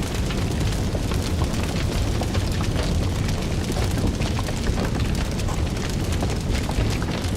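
Wood fire burning with a steady low rumble and dense crackling, many small pops and snaps throughout.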